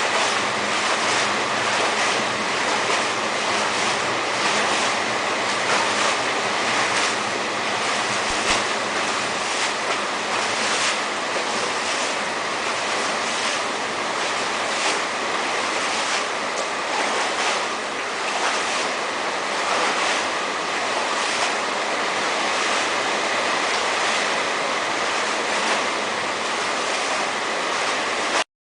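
Heavy rain pouring down in a steady, loud hiss that cuts off suddenly near the end.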